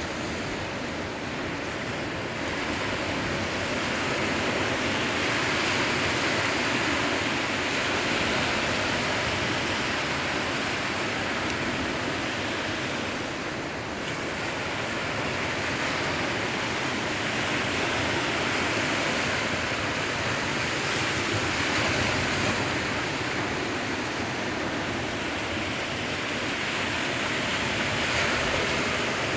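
Sea surf washing on the shore: a continuous rushing hiss that slowly swells and eases as waves come in, about one swell every ten seconds.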